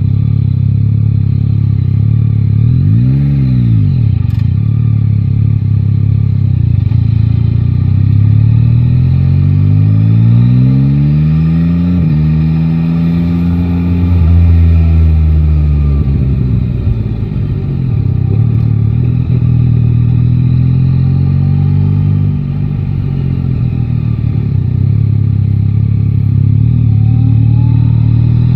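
Yamaha Tracer 9 GT's three-cylinder engine under way at road speed. There is a quick rise and fall in revs about three seconds in, then the revs climb, drop sharply at a gear change about twelve seconds in, and ease off slowly as the bike slows.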